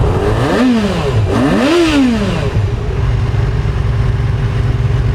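2009 Yamaha FZ6's 600cc liquid-cooled inline four-cylinder engine revved twice with quick throttle blips, each rising and falling back, then settling into a steady idle.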